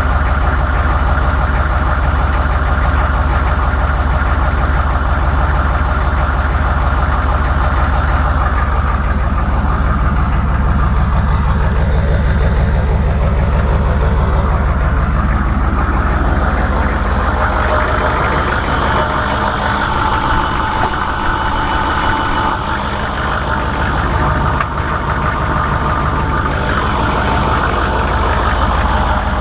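A 1998 vehicle's engine idling with an odd, regular knocking noise, which a shop traced to the bottom end of the engine. The deep low rumble thins out about seventeen seconds in.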